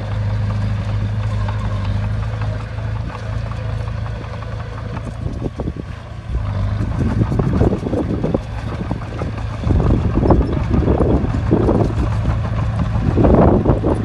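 Heavy diesel engine of a bulldozer running with a steady low hum. From about halfway through, louder irregular bursts of rougher rushing noise come and go on top of it.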